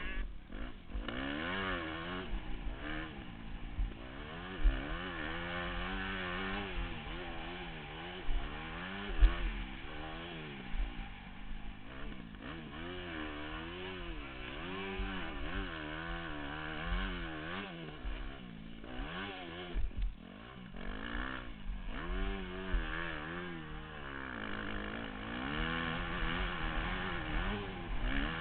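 Motocross dirt bike engine on track, revving up and down over and over as the throttle opens and closes, with occasional short thumps.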